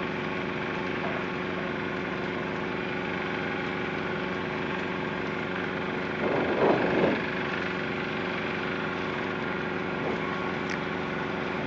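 Tecnam P92 light aircraft's Rotax 912 flat-four engine running steadily at low power, idling or taxiing, heard from inside the cockpit.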